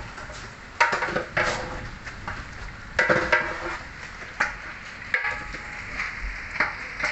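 Food frying in a cooking pot with a steady sizzle, while a metal spatula stirs and scrapes against the pot in a series of irregular clanks.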